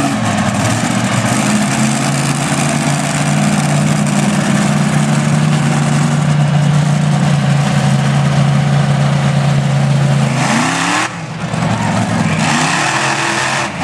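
Monster truck engine held at high, steady revs for about ten seconds, then backing off about eleven seconds in and revving up again near the end.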